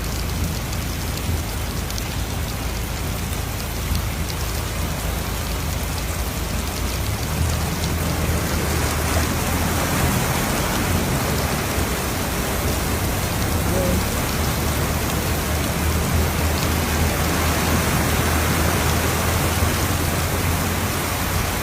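Steady heavy rain that grows somewhat louder about eight seconds in, over a low steady hum.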